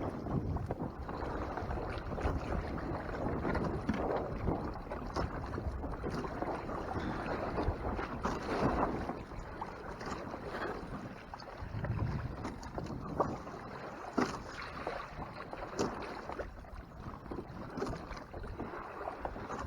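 Water slapping and lapping against a kayak hull under way, swelling and fading unevenly, with wind buffeting the microphone and a few light clicks.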